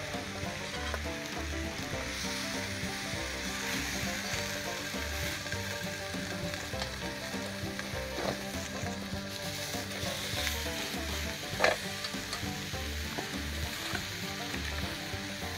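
Chicken breast sizzling and frying on a griddle over a fire pit, a steady spitting hiss with small pops, and one sharp click a little past halfway.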